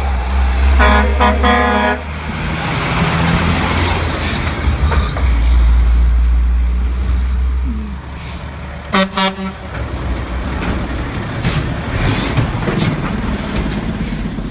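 Semi-truck air horn sounded in a quick series of short blasts about a second in, then a couple more short blasts near the end, over the low rumble of a passing tractor-trailer's diesel engine.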